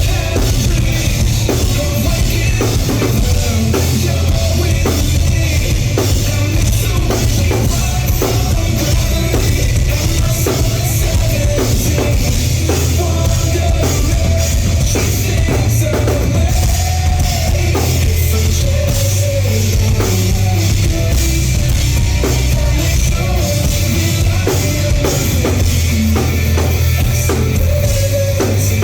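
A live rock band playing an instrumental stretch of a song, with a loud drum kit keeping a steady beat over a heavy bass low end and no sung words.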